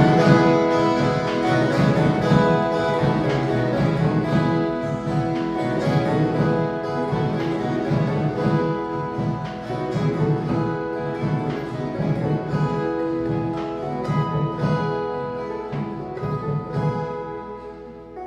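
Ensemble of violas caipiras, the Brazilian ten-string guitars, playing a piece of music with plucked notes. The music dies away near the end.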